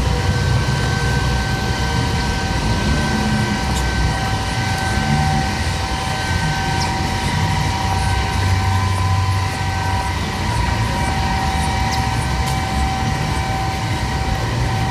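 Street traffic with a heavy vehicle's engine running close by, a low rumble under a steady high-pitched whine.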